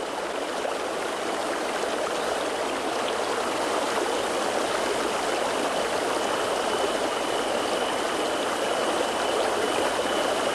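Fast-flowing stream rushing over rocks, a steady rush of water that swells up over the first second. A faint high steady tone runs through the second half.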